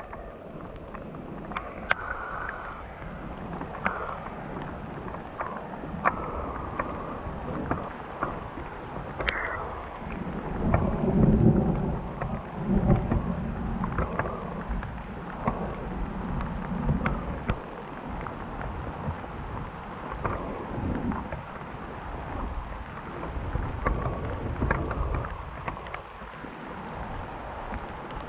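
Steady tropical rain falling, with scattered sharp clicks and taps throughout and a low rumble of thunder about ten to thirteen seconds in.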